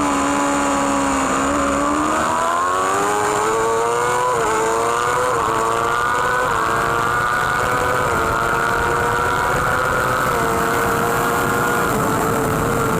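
Racing superbike engine heard from its onboard camera: running at low revs out of a corner, then accelerating hard with a run of quick upshifts, each a brief dip in pitch. It then holds high revs steadily at full throttle.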